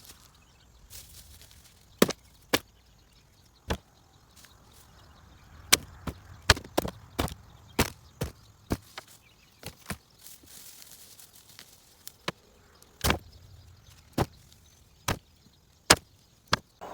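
A hand digging tool striking into very hard garden soil again and again, irregular sharp strikes a second or so apart, as potatoes are dug out.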